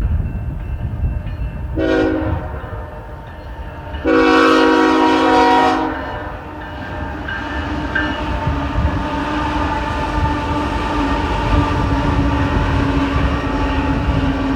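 Diesel freight locomotive horn sounding a short blast about two seconds in, then a louder long blast of about two seconds. A steady low rumble and hum follow, with wheel noise as the train rolls by.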